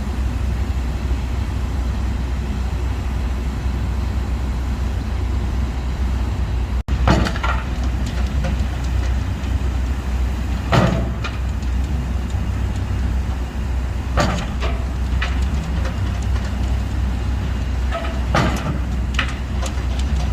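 Pile driving: a heavy machine's diesel engine runs steadily under load while the pile is struck in loud, ringing blows, four of them spaced about three to four seconds apart.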